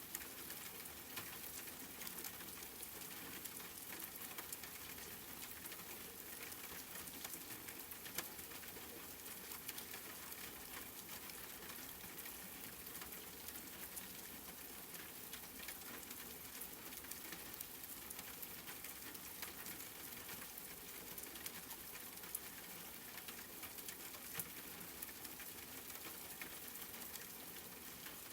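Steady rain falling, an even hiss with the patter of many individual drops and a few sharper drips.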